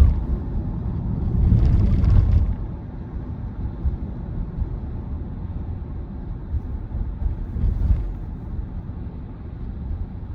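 Steady low road and tyre rumble inside the cabin of a moving Tesla Model Y, an electric car with no engine note. A louder swell of noise comes about two seconds in, and a short one near eight seconds.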